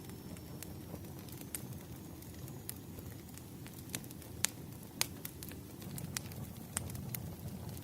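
Fireplace fire crackling: a steady low rumble of flames with irregular sharp pops, the loudest two about halfway through.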